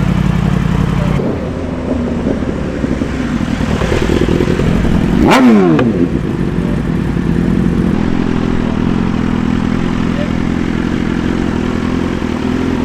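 Sport motorcycle accelerating hard past at high revs, its engine pitch climbing as it approaches and then dropping sharply as it passes, about five seconds in. Idling engines run steadily before and after the pass-by.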